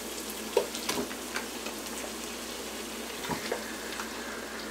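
Onion-and-spice masala sizzling in oil in a steel pot as raw trotter pieces are dropped in, with a few scattered clicks and knocks.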